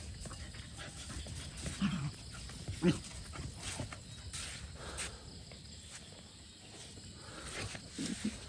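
Dogs making a few short, low vocal sounds: two at about two and three seconds in, and another pair near the end.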